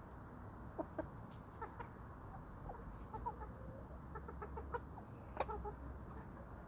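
Chickens clucking softly in short, scattered notes, with a few sharp taps among them.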